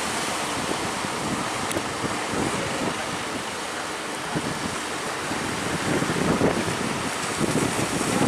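Ocean surf with strong wind buffeting the microphone, in gusts that swell about six seconds in and again near the end.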